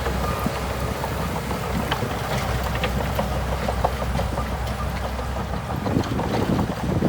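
Shantui DH17C2 bulldozer's diesel engine running steadily with a low drone, with scattered light clicks and clanks over it.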